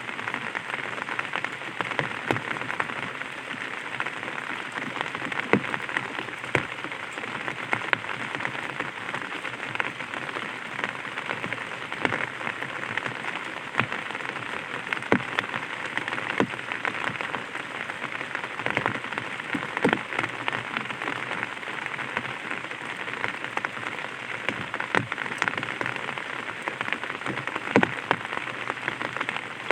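Light rain falling on an umbrella: a steady hiss of small drops with scattered louder single drops striking the canopy every second or so.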